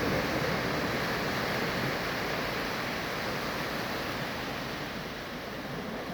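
Sea surf washing on the shore, a steady rush that slowly eases.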